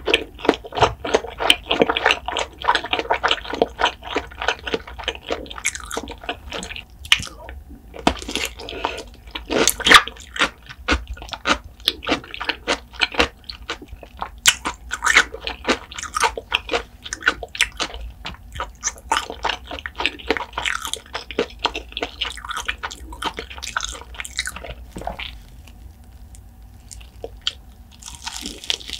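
Close-miked chewing of crunchy fried food, a dense run of crisp crunches and wet mouth sounds, thinning out for a few seconds near the end.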